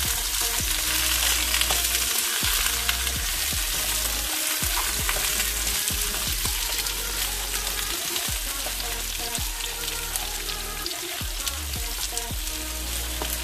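Squash and eggplant chunks sizzling as they sauté in oil in a metal pan, a steady frying hiss. A spatula stirs them now and then, with a few short clicks and scrapes against the pan.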